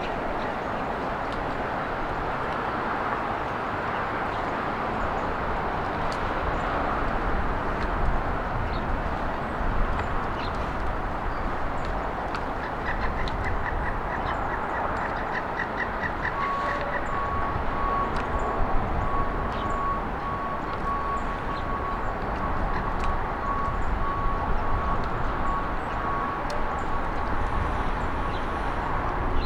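Steady road traffic noise, with a quick trill of bird chirps around the middle and an evenly repeated high beep about once a second through the second half.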